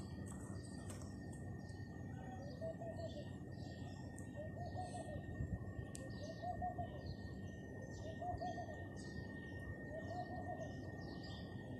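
Birds calling: a low call repeated about every two seconds, with many short high chirps, over a steady thin high tone and low background noise.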